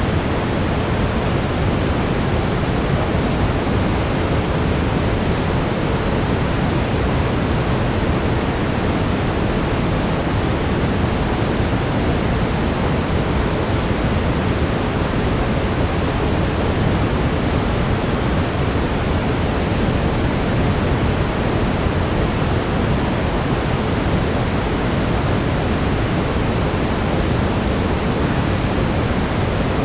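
Steady brown noise, a deep even hiss weighted toward the low end, with a faint steady tone near 432 Hz beneath it.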